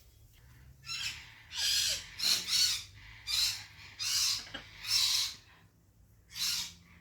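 African grey parrot making a run of about eight short, breathy hissing noises without any clear pitch.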